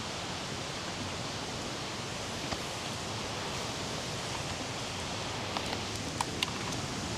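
A steady, even rush of outdoor noise, with a few light sharp ticks or crunches about two and a half seconds in and a few more near the end.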